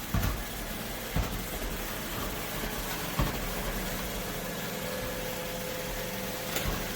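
iRobot Roomba Combo j5 robot vacuum running, its motor and brushes making a steady whirring hiss, with a few short knocks.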